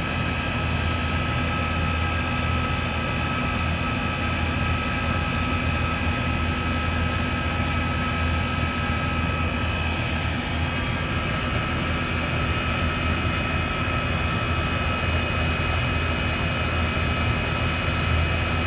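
Outdoor unit of a Trane XE1000 R22 heat pump running in cooling mode while being charged with refrigerant: a steady low hum from the compressor under the rushing air of the condenser fan, with a few steady higher tones on top.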